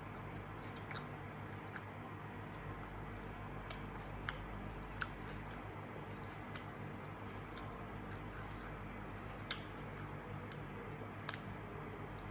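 A person chewing food close to the microphone, with wet mouth sounds and scattered short sharp clicks and crunches, the loudest near the end. A steady low hum runs underneath.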